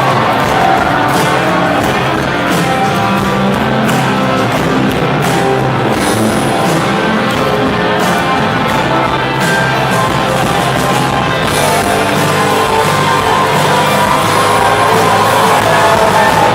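Live rock band performance: electric guitars, drums and singing, played loud and continuously, with the crowd audible in the mix.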